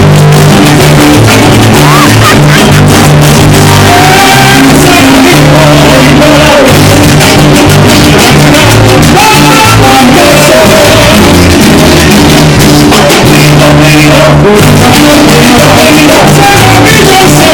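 Loud live Latin band music with a singer, a stepping bass line and busy percussion, recorded so hot that it sits at the top of the level.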